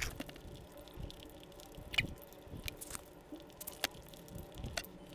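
Quiet, close-miked chewing with the mouth closed, soft wet mouth sounds broken by a few faint sharp clicks.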